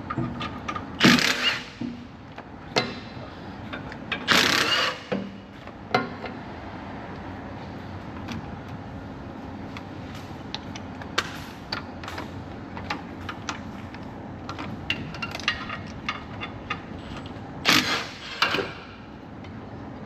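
Tools working on metal engine parts: scattered clinks and knocks, with three louder noisy bursts about a second in, about four seconds in, and near the end.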